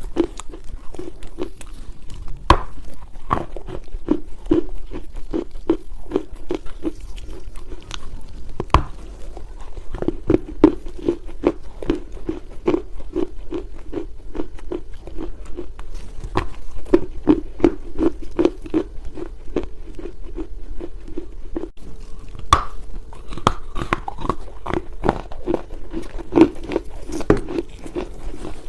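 Dry Chinese loess crunching close to the microphone in a steady run of soft crunches, about two to three a second, with a few sharper snaps about 2.5, 9 and 22.5 seconds in.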